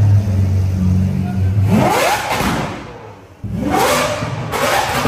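A steady low engine drone, then a car engine revving hard with its pitch climbing steeply, about two seconds in and again about three and a half seconds in.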